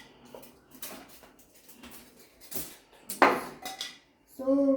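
Plastic refrigerator trays and fittings clattering and knocking as they are taken out, with the loudest knock about three seconds in. A short pitched sound follows near the end.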